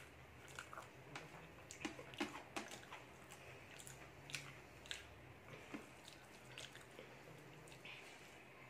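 Faint wet chewing and lip-smacking from eating rice by hand, with soft squelches of fingers mixing rice on a steel plate. The clicks and smacks come thickest in the first half, then thin out.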